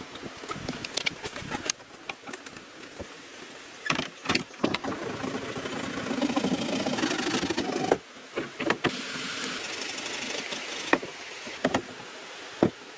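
Bamboo being worked by hand: irregular knocks and clacks, with stretches of scraping in between.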